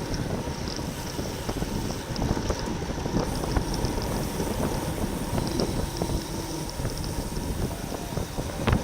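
Wind buffeting the microphone of a camera riding on a racing bicycle at speed: a steady, gusty rush heaviest in the low end, with a short click near the end.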